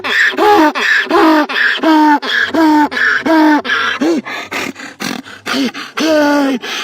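A dog giving a fast run of short pitched barks or yowls, about two a second, each call dipping in pitch, with one longer drawn-out call near the end.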